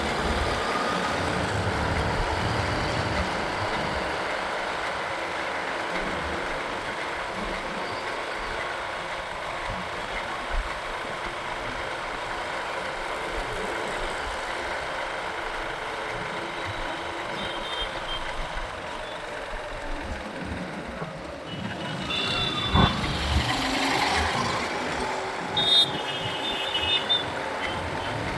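Road and traffic noise heard from a moving motorcycle in city traffic. In the last third come several short, high beeps.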